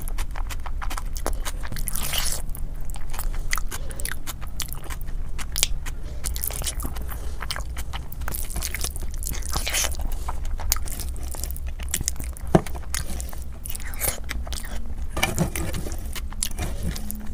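Close-miked chewing of a big mouthful of biryani eaten by hand: wet mouth clicks, smacking and crunching in quick succession. Near the end, fingers scrape rice off the metal tray.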